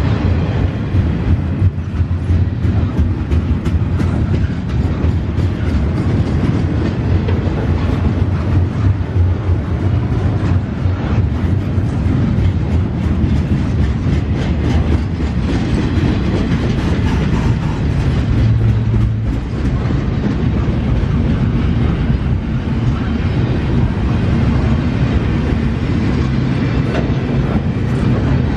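Freight train cars rolling past close by: a steady low rumble with the wheels clicking over rail joints.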